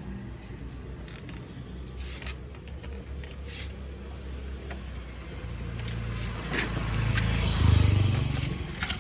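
A motor vehicle engine running, growing louder to its peak about eight seconds in and then easing off, with scattered light clicks and knocks.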